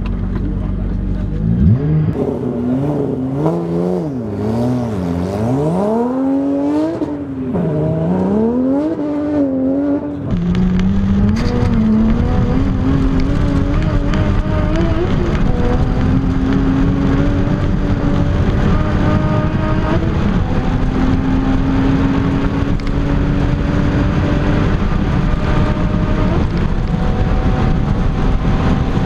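Porsche 911 Turbo (996) twin-turbo flat-six heard from inside the cabin, launching from idle on a flat-out top-speed run on ice. For the first several seconds the revs climb and drop again and again. After that a steady rush of wind and tyre noise builds, while the engine note climbs slowly through long high gears.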